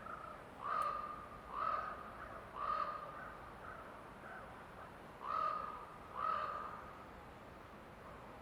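A bird giving five harsh, cawing calls: three about a second apart, then after a pause two more. A faint steady forest background lies underneath.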